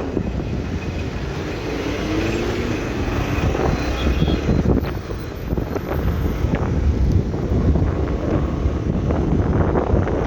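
Wind buffeting the microphone on a moving motorbike, over a steady low rumble of engine and road noise.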